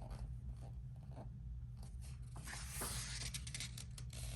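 Paper rustling and sliding as the pages of a paperback coloring book are turned and handled, with a steady low hum underneath.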